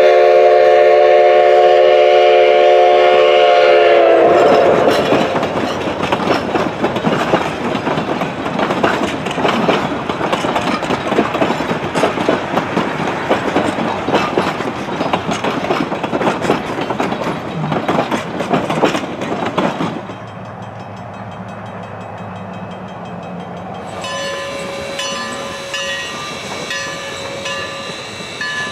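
Steam locomotive whistle blowing one long chord of several notes for about four seconds, then the train passing close, with dense clattering and chuffing from the engine and wheels on the rails. Around twenty seconds in the sound cuts to a quieter, more distant train sound with faint steady tones near the end.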